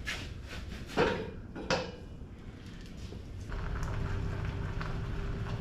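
Two sharp metallic clanks about a second apart. About three and a half seconds in, a steady machine hum with a low drone and a held tone starts up.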